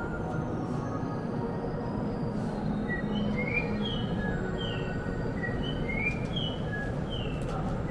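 Steady low rumble and hum from an E6 series Komachi Shinkansen train standing at the platform. From about three seconds in, a string of short high chirps sounds over it.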